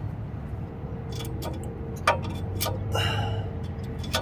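Sharp metallic clicks and taps from a cotter pin being bent and folded over a tie-rod bolt, with a short scrape about three seconds in, over a steady low hum.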